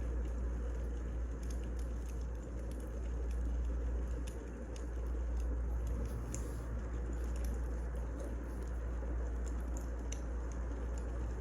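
Wood fire burning, with scattered small crackles and pops over a steady low rumble.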